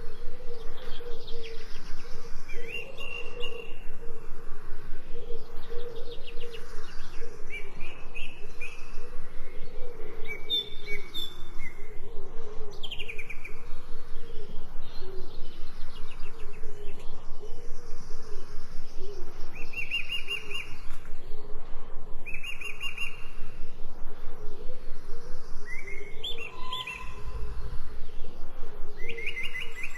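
Songbirds chirping and calling in short repeated phrases, with a steady low background throughout.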